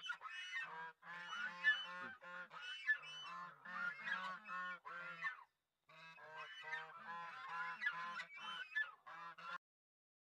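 A flock of domestic geese honking, many calls overlapping in quick succession, with a short break just before six seconds in. The honking stops abruptly near the end.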